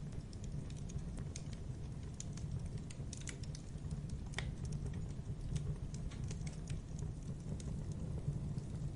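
Wood fire in a fireplace crackling: irregular small pops and snaps over a steady low rumble of the flames.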